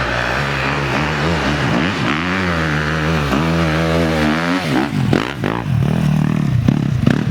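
Dirt bike engine revving hard as a rider climbs a hill. The pitch rises and falls through the first few seconds, then turns into choppy, uneven bursts of throttle near the end.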